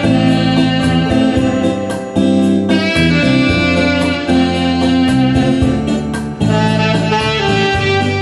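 Trumpet playing the melody over a pop backing track with guitar and a steady drum beat.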